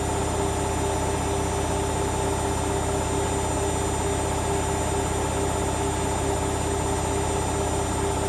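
Hoover Vision Dynamic washing machine running mid-cycle: a steady motor hum with a pulsing whine that does not change.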